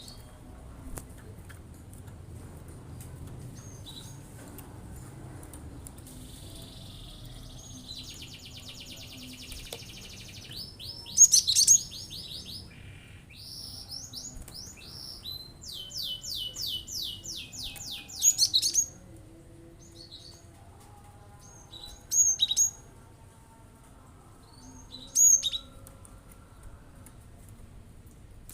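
Cinereous tit (gelatik batu) singing in rapid-fire phrases: fast trills of evenly repeated high notes, broken by short, sharp, loud calls. The call bursts come in several separate bouts, the loudest in the middle of the stretch.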